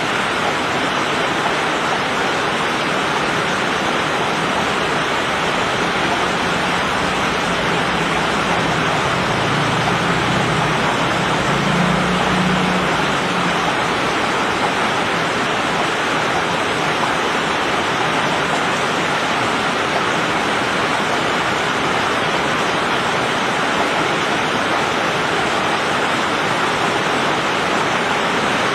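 Heavy rain falling steadily in a dense, even hiss, with a faint low hum swelling and fading in the middle.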